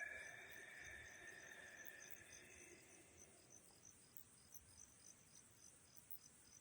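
Faint insects chirping in a steady pulse of about five chirps a second, with a fainter sustained tone that fades out over the first few seconds.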